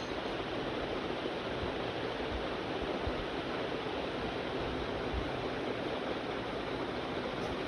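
National ceiling fan running, giving a steady rush of moving air with no clear motor hum or ticking.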